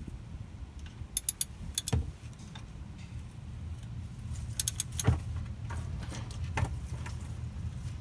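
Small metal objects clinking and clicking in short clusters of three or four sharp clicks, about a second in, near two seconds, around five seconds and once more near the end, over a steady low hum.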